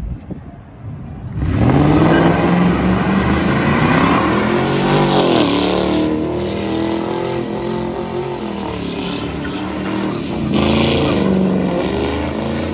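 Car engine revving hard, starting abruptly about a second and a half in, its pitch climbing and falling through repeated revs.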